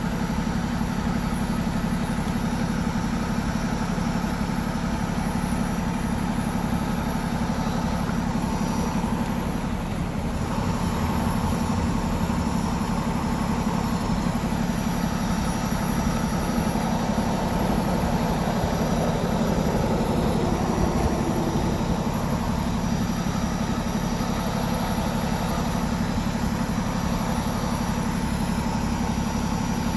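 A vehicle's engine running steadily with a constant low hum.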